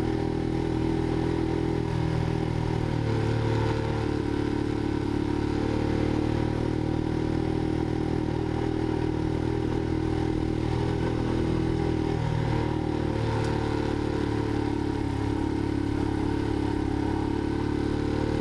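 Motorcycle engine running steadily while riding an off-road track, its pitch dipping briefly about two and a half seconds in and again about twelve seconds in.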